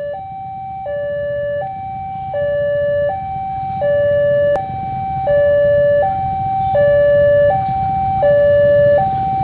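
Two-tone hi-lo siren, a lower and a higher note alternating about every three quarters of a second, growing steadily louder over a low engine rumble.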